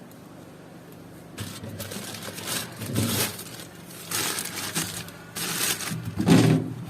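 Plastic bags of vegetables rustling and crinkling as they are handled and packed into a refrigerator, in several irregular bursts starting about a second and a half in.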